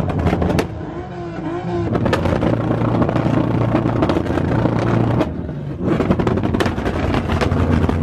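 Car engines running and revving loudly, with rapid sharp crackles throughout.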